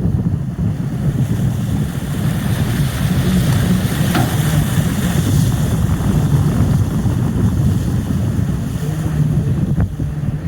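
Wind buffeting the microphone over the steady low rumble of a tour boat under way at sea.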